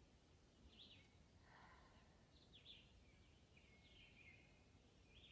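Near silence, with a few faint, short, high bird chirps scattered through.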